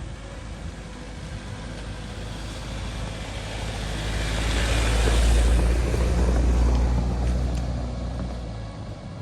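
A road vehicle driving past, its low rumble and tyre noise growing louder to a peak about five to seven seconds in, then fading away.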